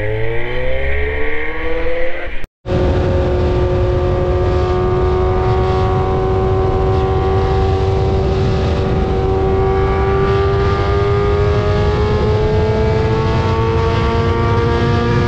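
Kawasaki Z900 inline-four engine accelerating, its pitch rising quickly. After a brief cut it runs on in one long, slowly rising pull, with heavy wind rumble on the microphone.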